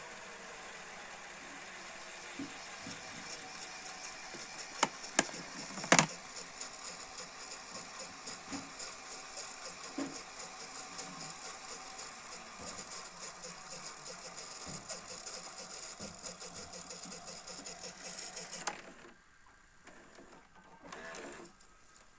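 Panasonic NV-SD300 VHS video recorder's tape mechanism running with a steady whir, with a few sharp clicks about five and six seconds in. The whir stops suddenly about nineteen seconds in, and a short mechanical sound follows about two seconds later.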